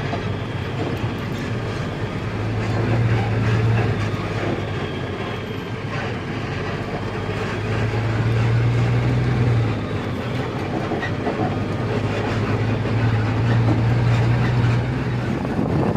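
Truck engine droning while driving, with steady road noise and rattling, heard from inside the cab. The low engine hum swells and eases back several times.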